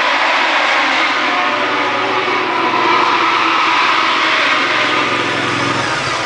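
MotoGP racing motorcycle engines running at the circuit: a loud, steady, noisy drone with no single bike's pitch standing out.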